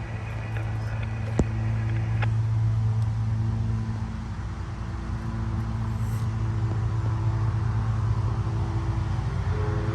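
An engine running steadily with a low, even drone, and a single sharp click about a second and a half in.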